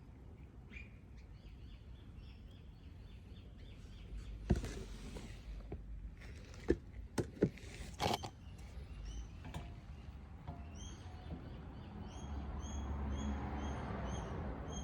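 Small birds chirping in short repeated calls, which become a steady run in the second half. Four sharp knocks of handling come between about 4.5 and 8 seconds in, and a soft rushing noise builds near the end.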